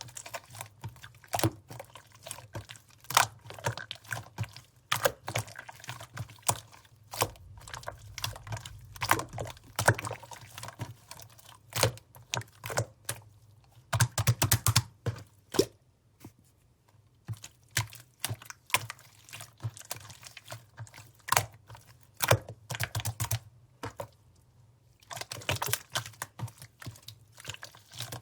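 Sky-blue slime being squished and pressed by hand, making a fast, irregular run of sticky clicks and pops, with two short pauses.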